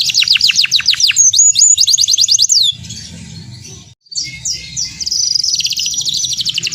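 Domestic canary singing: fast, high-pitched trills and rapidly repeated chirping notes. The song breaks off a little before halfway with a brief near-silent gap, then resumes with long, rapid trills.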